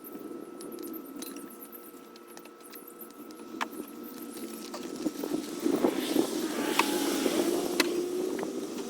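Scattered light clicks and rattles of parts and tools being handled while working on a car door. They get busier and louder about halfway through.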